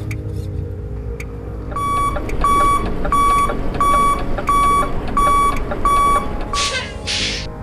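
An RC truck's sound module gives a reversing beeper: about seven even, pitched beeps, roughly one and a half a second, over a low steady hum. A short double hiss follows near the end.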